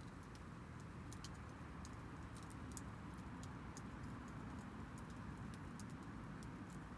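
Small wood campfire burning, with faint, irregular little crackles and pops over a low steady rumble.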